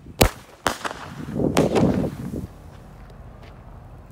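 Small consumer fireworks going off: three sharp cracks in the first two seconds, the last one loudest, with about a second of rushing, crackling noise around the last, then it dies away.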